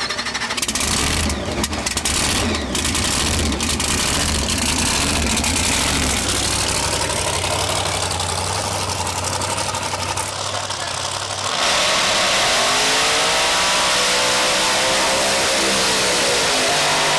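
A drag car's engine rumbling loudly with crackles, then about two-thirds of the way through a louder engine note that climbs in pitch and then levels off as the car accelerates down the track.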